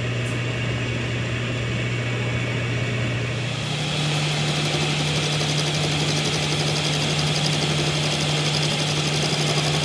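A machine running steadily with a constant hum that steps up in pitch about three and a half seconds in, as its speed rises.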